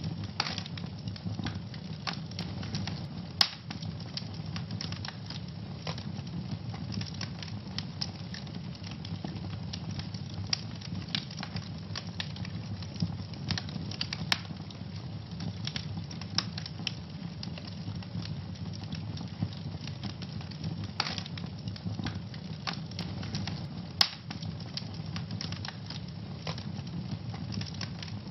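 Wood fire burning in a fireplace with a steady low rumble, crackling continuously, and a couple of sharper pops, about three seconds in and again near the end.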